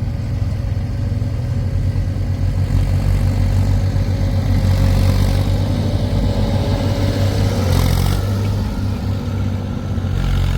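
Heavy diesel engine of a backhoe loader or tractor running steadily with a deep rumble, with a thin whine that fades away and a short burst of noise about eight seconds in.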